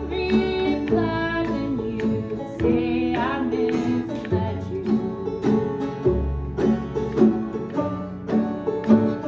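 Acoustic folk band playing live, with plucked banjo and guitar under a melody line.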